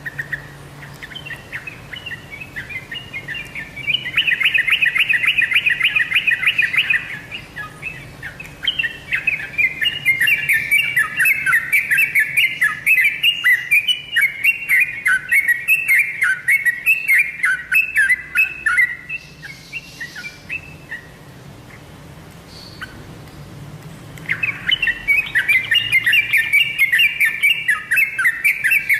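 Yellow-vented bulbul (trucukan) singing in three bouts of fast, chattering notes, with pauses of a few seconds between bouts.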